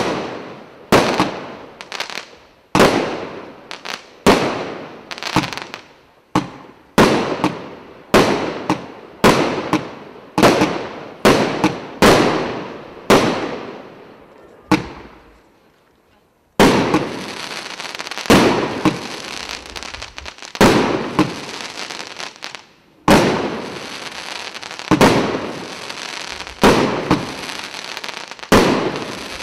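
Premier Salute 'Ptitsa-Troika' fireworks cake, a 68-shot battery of 0.8–1.5-inch shells, firing shot after shot, about one to two sharp reports a second, each fading away. After a short lull about halfway through, a dense crackle starts and runs on under further shots, from the gold crackling effects.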